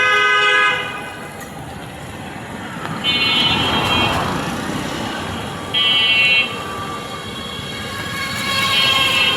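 Vehicle horns honking in busy street traffic: a blast right at the start, then separate higher honks about three seconds in, about six seconds in and near the end, over steady traffic noise.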